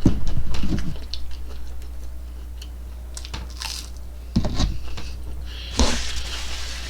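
Chewing and small mouth and handling noises from eating chicken nuggets: scattered soft clicks and short rustles, a little louder near the start and twice in the second half, over a low steady hum.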